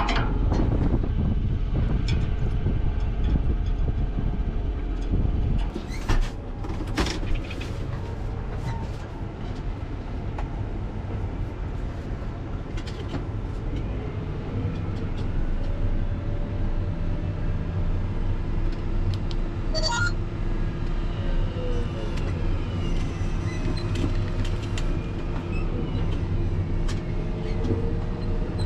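Farm machine's engine running steadily, louder in the first few seconds, with a few sharp clanks about six to seven seconds in.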